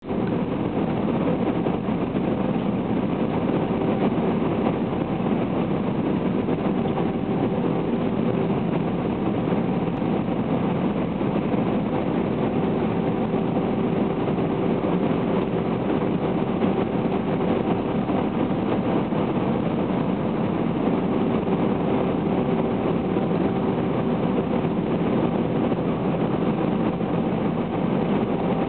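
Steady drone of an airliner in flight on its approach to land, engine and airflow noise as heard from inside the cabin, with a faint steady hum through it.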